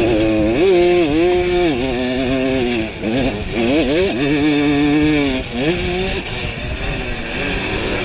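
Two-stroke single-cylinder Simson engine of a racing pitbike, heard close up: revving hard, its pitch climbing and falling again and again with the throttle, with short drops about three seconds in and again about five and a half seconds in.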